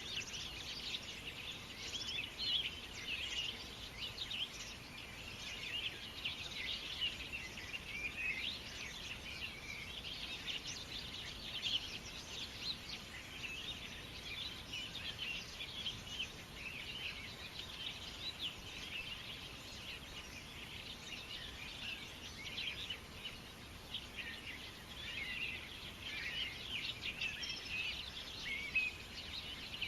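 A chorus of many small birds chirping and twittering without a break: a dense tangle of short, high calls over a low steady hiss.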